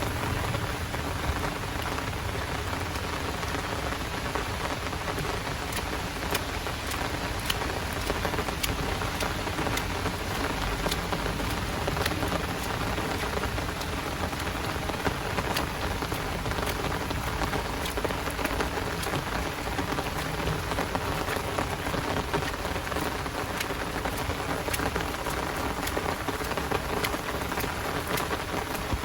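Heavy rain falling steadily, a dense hiss with many sharp, close drop ticks scattered through it.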